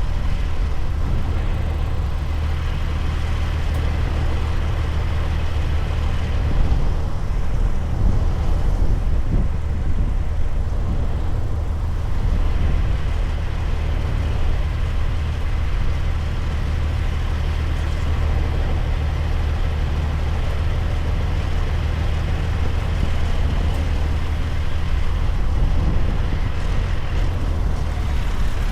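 Heavy-haul truck's diesel engine running steadily under load with a deep, even hum, with road noise, while pulling a combination of about 129,000 lbs.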